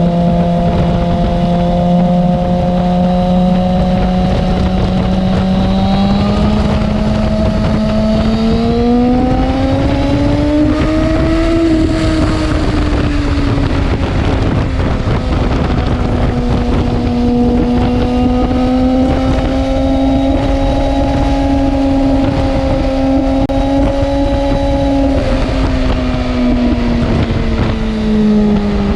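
Suzuki GSX-R750's inline-four engine running under way, with wind rush. It holds steady, revs rise from about six seconds in to a peak near twelve seconds, ease back and hold steady, then drop off near the end.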